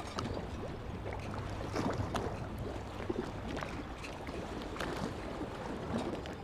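Small waves lapping and sloshing at the water's edge: a steady wash broken by many short, irregular splashes and gurgles.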